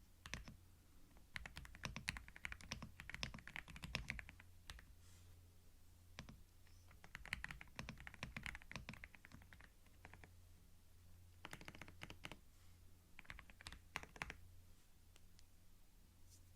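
Typing on a computer keyboard recorded close on a binaural microphone: runs of rapid key clicks lasting a second or few, with short pauses between runs, over a steady low hum.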